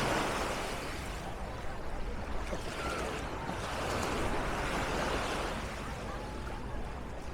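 Surf washing onto the beach, the noise of the waves swelling again around the middle and easing near the end.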